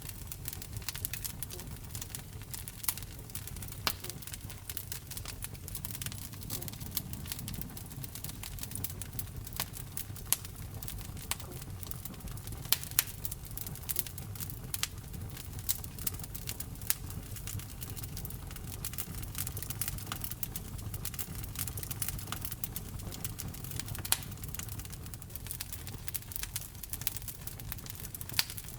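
Wood fire burning in a fireplace, crackling with frequent irregular sharp pops over a low steady rumble of the flames, with a few louder snaps.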